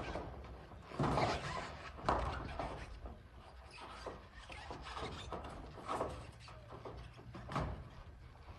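Irregular scraping and knocking of timber being handled or worked, with louder bursts about one and two seconds in and smaller ones later.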